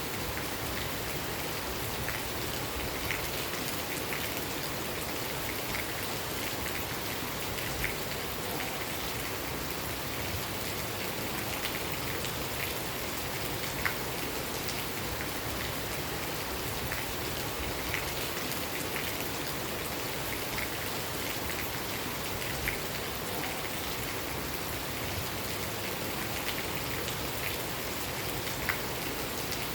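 Steady rain falling, with separate drops ticking sharply every second or two.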